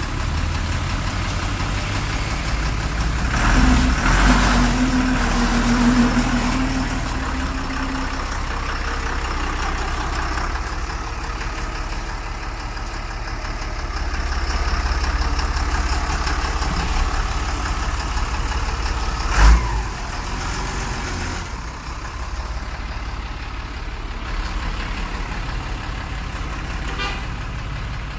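Same Silver 130 tractor's diesel engine running steadily, louder for a few seconds near the start with a brief held whine, and one sharp clunk about two-thirds of the way through.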